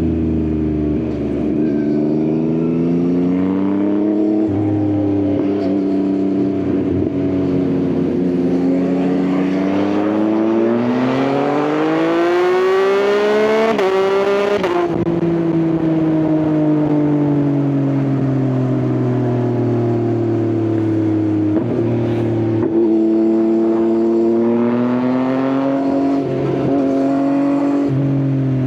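Yamaha XSR900 inline-three motorcycle engine through an Akrapovič exhaust, riding and shifting through the gears. The pitch steps up and down with several quick breaks for gear changes. A long pull climbs steadily about halfway through, then drops off suddenly, after which the engine settles back to a lower, steady pitch.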